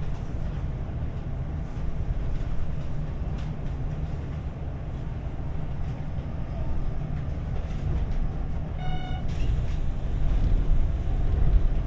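Hanshin 8000 series electric train running, heard from inside the car: a steady low rumble of wheels on rail that grows a little louder near the end. About nine seconds in, a brief high beep sounds.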